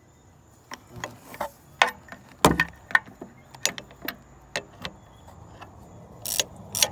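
Hand tools clicking and knocking against metal in irregular sharp strikes while a nut on a tractor's injection pump is worked loose, with a couple of short rasping bursts near the end.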